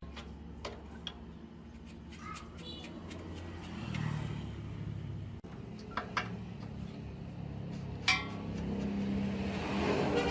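A steady low machine hum with scattered clicks and knocks; a sharp knock about eight seconds in is the loudest.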